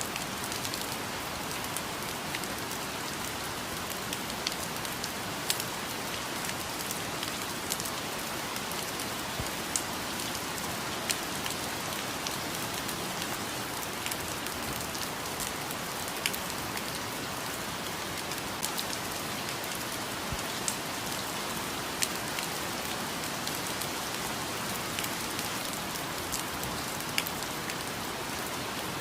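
Steady rainfall, an even hiss with scattered sharper drops striking close by.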